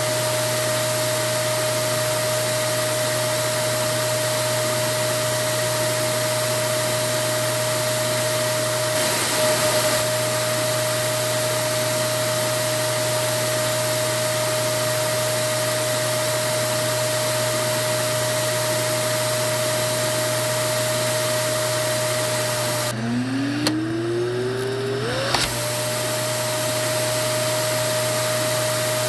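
Vacuum cleaner motor running steadily, a rushing noise with a constant high whine. About 23 seconds in the rush drops away and the whine falls low, then climbs back up over a couple of seconds as the motor spins up again to its steady run.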